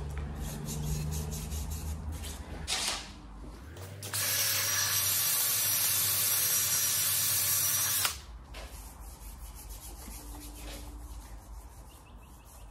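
A power tool runs steadily for about four seconds in the middle, starting and stopping abruptly. Lighter clinks and rubbing of hand work on the engine come before and after it.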